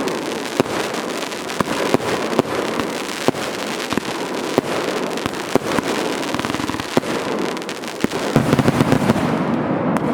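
Fireworks going off in quick succession: a dense crackle studded with many sharp bangs. Near the end the bangs thin out and the high crackle fades, leaving a lower, steadier sound.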